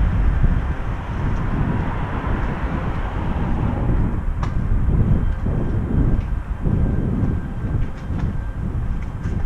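Outdoor traffic noise: a passing vehicle's rumble, loudest in the first few seconds and then fading. A low, uneven rumble carries on underneath, with a couple of faint clicks.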